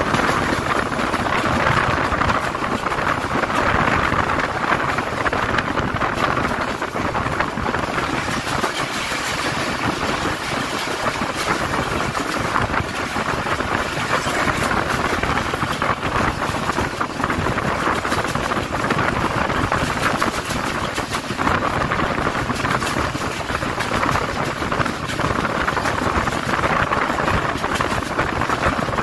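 Passenger train running through a station without stopping: the steady noise of wheels on the rails and rushing air, with frequent small clicks and knocks.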